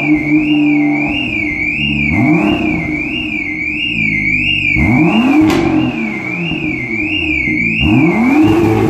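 BMW M2's turbocharged straight-six idling after a cold start and blipped three times, each rev rising and falling back. A high warbling tone sweeps up and down about twice a second throughout.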